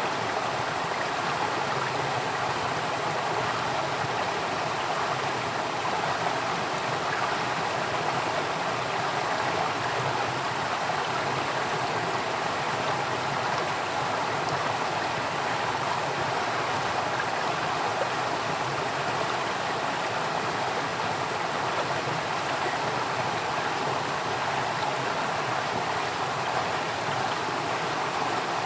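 Flowing water, like a stream, running steadily: an even, continuous rush with no breaks or changes.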